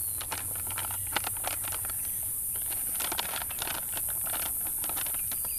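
Irregular rustling and light clicks, like handling or crinkling, over a steady high hiss and a low hum.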